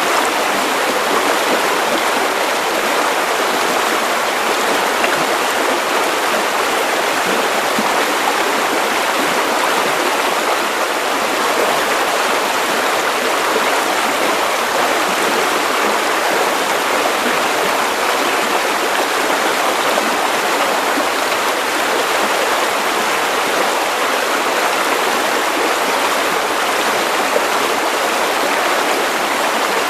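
Steady white noise for baby sleep: an even, unbroken hiss with little bass, the same throughout.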